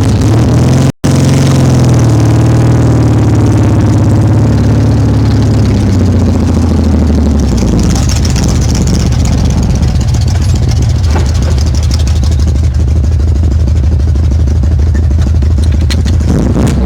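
Pickup truck's inline-six engine and exhaust pipes heard through an open window while driving: a loud, deep exhaust note whose pitch sags over the first few seconds, then holds steady. The sound cuts out for an instant about a second in.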